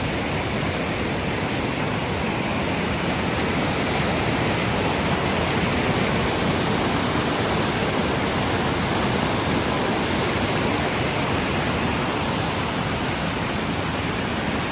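Steady, unbroken rush of water falling from a mountain waterfall.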